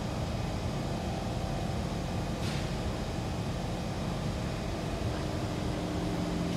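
Interior of a Kawasaki C151 MRT train standing in a station: a steady hum of its air-conditioning and auxiliary equipment with a few held tones. A short hiss comes about two and a half seconds in, and a steady low tone joins near the end.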